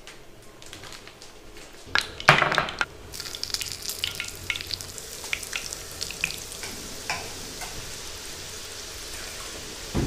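Floured squid rings frying in hot oil in a frying pan: a loud burst of sizzling about two seconds in, then steady sizzling with small crackles and pops.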